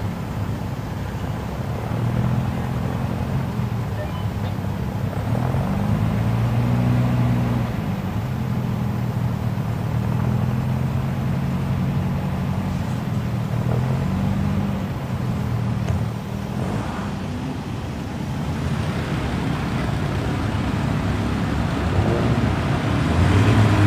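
Classic car engines, an MGA roadster's nearest, idling in a slow-moving queue, with a low steady note that rises and falls slightly with the throttle. Near the end a louder engine comes in.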